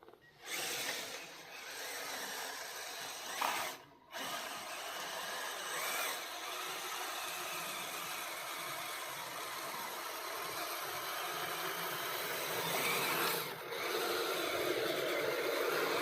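Electric motor and gear drivetrain of an RC crawler truck whining steadily as it drives, cutting out briefly twice as the throttle is let off.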